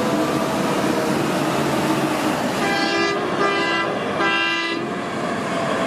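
Semi-trailer tanker truck passing close by, its engine and tyres making a steady roar, with three short horn blasts of about half a second each near the middle.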